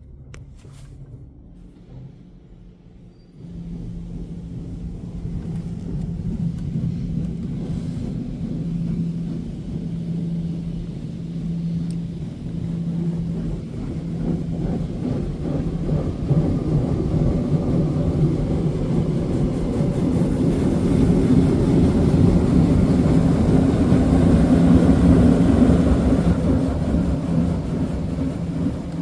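Istobal M'NEX 22 touchless in-bay automatic car wash running, a loud low rumble that starts suddenly a few seconds in. A low hum in it pulses about every second and a half, and it builds louder before easing slightly near the end.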